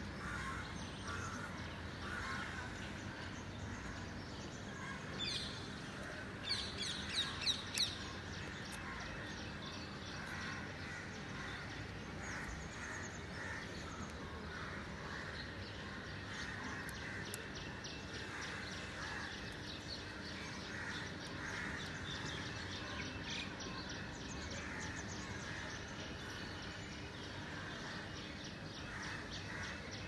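Many birds chirping and calling over the hush of a quiet city, with a short run of four loud calls about six to eight seconds in.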